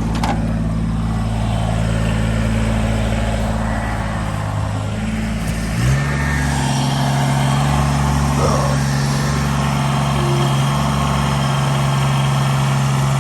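Small tractor's engine running steadily. About six seconds in, its note steps up to a higher, steady engine speed.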